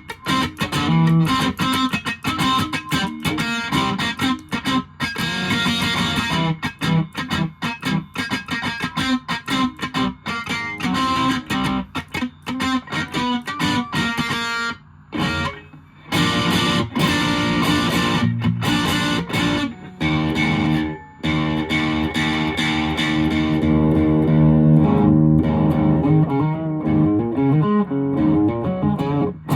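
Fender Japan Jazzmaster electric guitar played through a 1985 Japan-made Boss DS-1 distortion pedal into an amp, recorded straight on a smartphone without processing. Choppy picked notes and chords, with two brief breaks partway through and longer ringing chords near the end.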